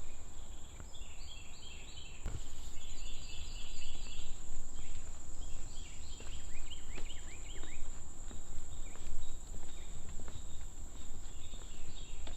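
Insects droning on one steady high pitch, with birds chirping over it in quick runs of short notes and a few down-slurred calls during the first two-thirds. A low, steady rumble runs underneath.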